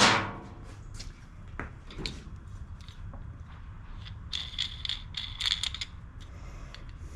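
Hand work on metal mower-deck parts: a knock at the start, scattered clicks, then a quick run of small metallic clicks and clinks about four to six seconds in.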